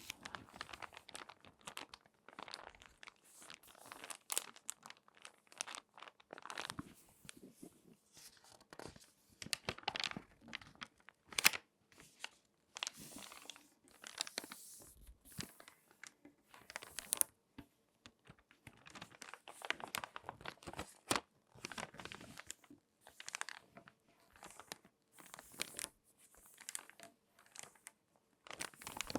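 Crinkly magazine pages being folded and creased by hand: irregular crackling and crinkling with short pauses between handlings, and one sharper crack about 11 seconds in.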